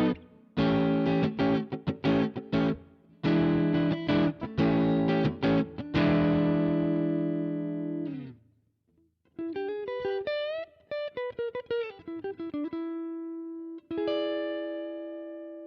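Electric guitar played through a VOX StompLab IIG modeling pedal on one of its Clean/Crunch amp models. Strummed chords ring out and fade about eight seconds in. After a short pause comes a single-note phrase with bent notes, ending on held notes that slowly die away.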